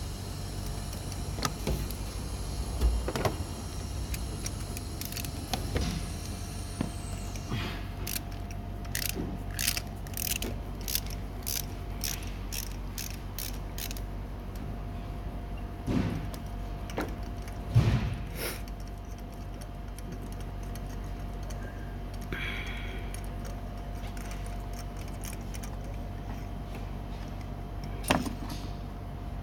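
Ratchet wrench clicking about twice a second and metal tools knocking while the ignition coil and spark plug are taken out of a 2011 Toyota Corolla engine, over a steady low hum. Two louder knocks come in the middle and one near the end.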